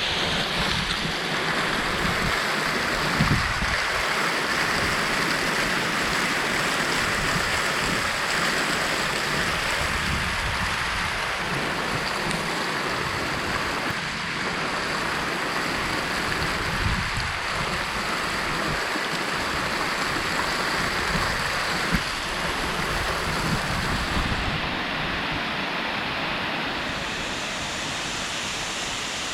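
Mountain waterfall pouring with a steady, full rush of water, its flow swelling. Wind buffets the microphone in low gusts underneath.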